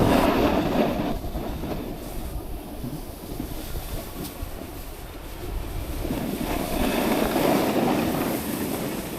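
Snowboard base and edges sliding and scraping over hard-packed snow, a rough rushing rasp that is loudest at the start and swells again about seven seconds in.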